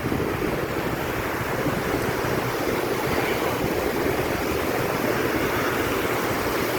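Rough sea surf breaking and washing steadily onto a beach, the water running high and strong.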